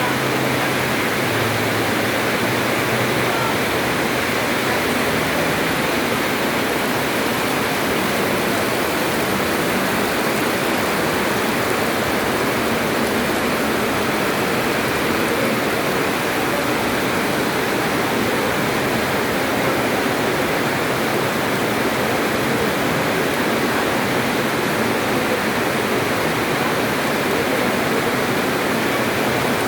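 Heavy rain pouring down steadily: a dense, even hiss with no letup.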